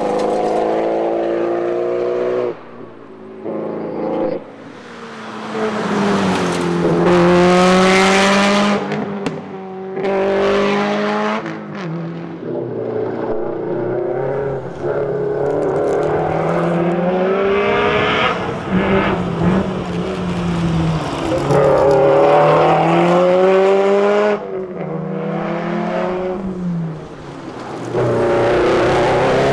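Subaru WRX STI rally car's turbocharged flat-four engine driven hard, revving up repeatedly and dropping back at each gear change or lift. The loudness falls away briefly a few seconds in.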